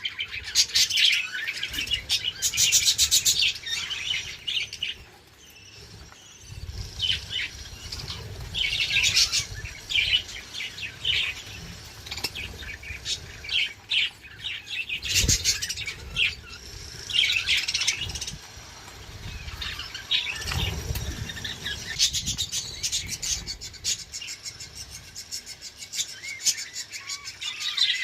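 Several budgerigars chirping and chattering in quick high bursts, on and off throughout.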